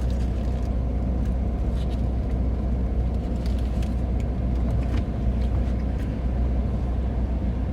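Steady low rumble of an idling car engine, with a few faint clicks over it.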